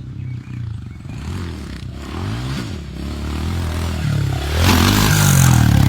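Dirt bike engine revving, its pitch rising and falling, with a louder rough, scraping rush near the end.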